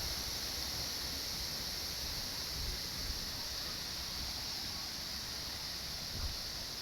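Waterfall: a steady, even rush of falling water with no break or change.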